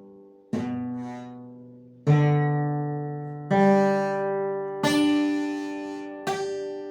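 Acoustic guitar holding a G major chord, its strings plucked one at a time from the lower strings upward: five single notes about a second and a half apart, each rising in pitch and left to ring. Some of the notes sound odd, which the player puts down to fingers not yet well placed on the chord.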